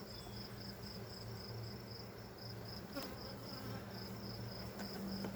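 Honey bees buzzing around an opened hive, a steady low hum. A high-pitched chirping repeats evenly a few times a second above it.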